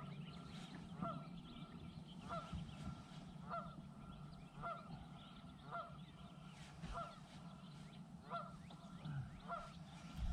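Baitcasting fishing reel being cranked on a steady retrieve: a short squeak about once a second over a faint steady whine.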